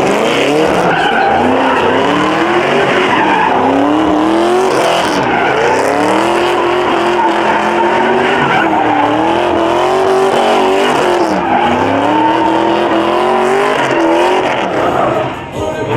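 A car's engine held at high revs during a burnout, its pitch wavering up and down, with the tyres squealing. The sound drops briefly just before the end.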